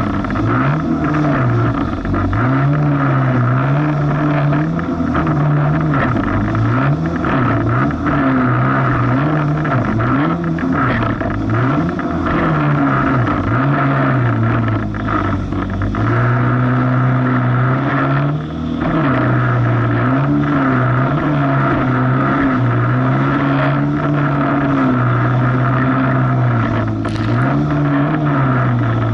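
Jet ski engine running under way, its pitch rising and falling every second or two as the craft rides rough waves, over a steady rushing noise.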